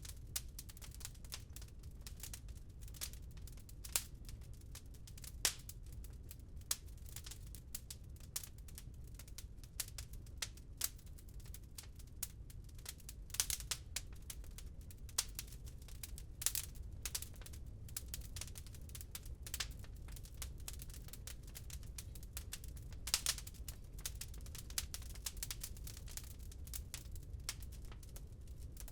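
Wood fire crackling in a fireplace: irregular sharp pops and snaps, some in quick clusters, over a steady low rumble.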